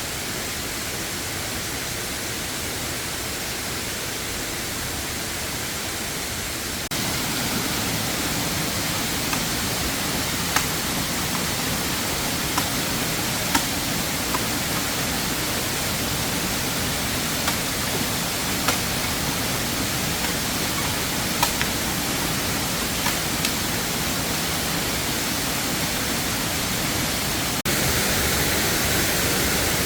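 Steady rushing hiss of a waterfall, with a few small clicks and pops scattered through the middle. It steps up a little in level twice, about seven seconds in and near the end.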